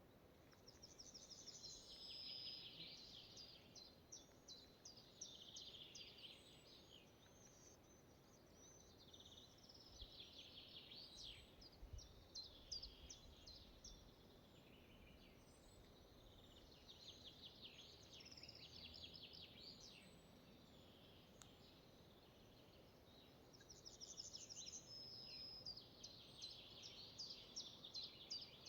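Faint forest ambience with a songbird singing the same short trilling phrase over and over, a few seconds apart, over a soft even background hush.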